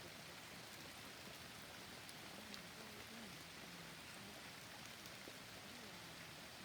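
Soft, steady rain: an even hiss with now and then a sharp drop tick.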